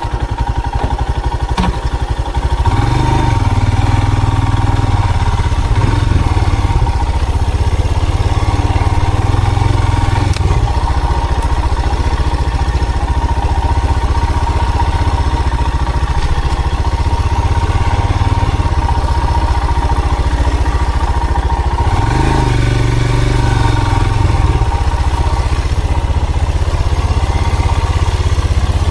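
Motor vehicle engine running steadily under way, with a low pulsing rumble. It pulls harder, rising in pitch, about two seconds in and again near the end.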